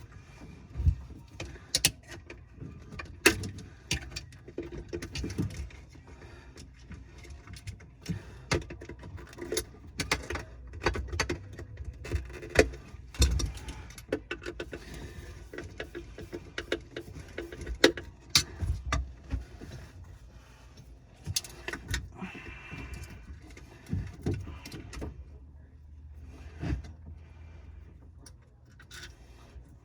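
Irregular clicks, clinks and knocks of tools and drain-pipe parts being handled and fitted under a kitchen sink, over a low steady background hum.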